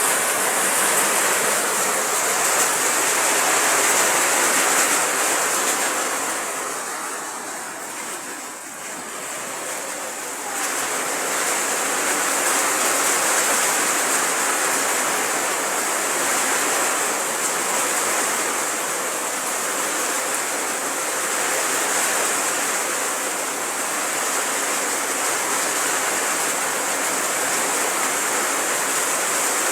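Heavy rain pouring down in a rainstorm, a dense steady hiss. It eases for a few seconds and comes back strong about ten seconds in.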